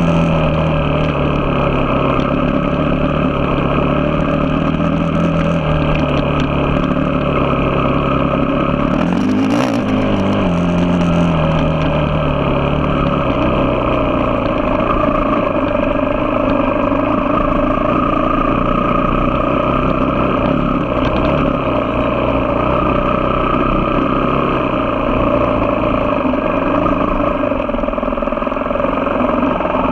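Engine of a vehicle under way, running steadily with a rush of wind and road noise; its pitch dips and climbs again about nine seconds in.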